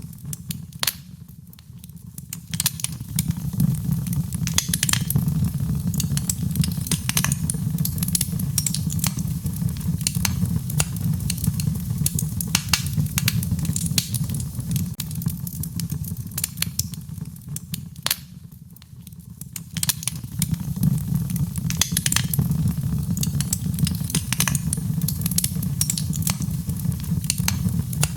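Wood fire in a fireplace crackling and popping: sharp irregular snaps over a steady low rumble of the flames, dipping briefly twice before picking up again.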